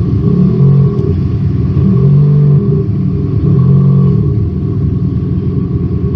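Engine note from a 2018 BMW i8 fitted with a Panthera Leo active sound generator, which plays a synthesized engine sound through a speaker. It runs steadily and rises briefly three times, like light revs.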